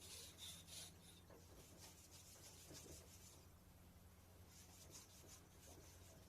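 Faint, irregular rubbing and scraping strokes of cleaning an air conditioner part, heaviest in the first second, over a steady low hum.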